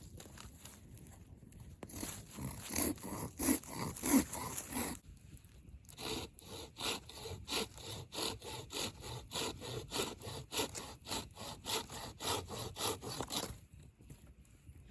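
Hand saw cutting through wood: a few uneven strokes, a short pause, then a steady run of about three strokes a second that stops near the end.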